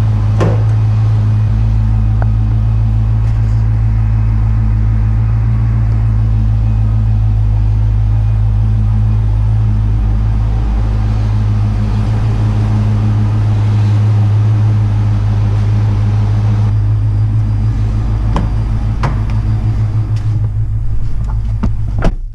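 Ford 5.0-litre high-output fuel-injected V8 (302 cubic inch) of a 1991 Mustang LX idling steadily, freshly started after sitting for a couple of weeks.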